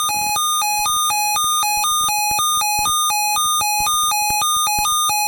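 Electronic two-tone weather alert tone, switching back and forth between a lower and a higher pitch about twice a second, with a click at each switch.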